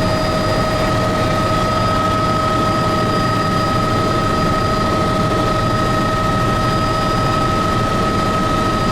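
Tour helicopter in steady cruising flight: an even rotor and engine noise with a constant high turbine whine.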